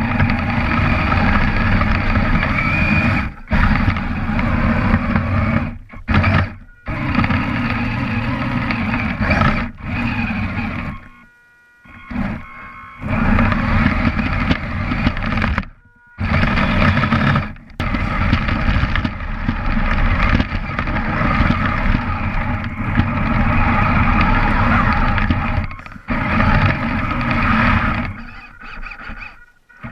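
Kyosho Blizzard RC snowcat's electric drive motors and gears running loud and close, heard from a camera mounted on the vehicle. The drive stops and starts again several times, with its longest pause about 11 seconds in.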